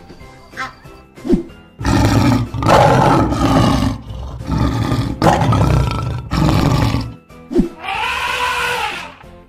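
Lion roar sound effect, loud and drawn out over about five seconds, over background music. Near the end a shorter call rises and falls in pitch.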